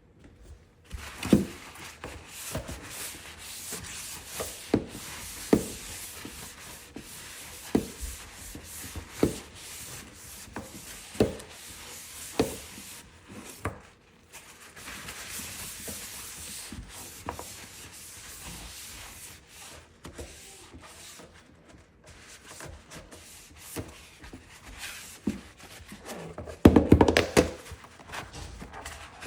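Handling and assembly noises from a dish drying rack: rustling with a string of separate knocks and clacks every second or two, and a louder burst of clattering near the end as parts are fitted together.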